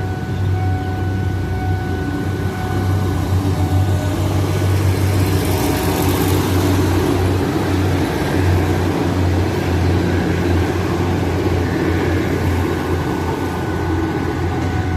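Vehicle engines running with a steady rumble, a little louder in the middle stretch.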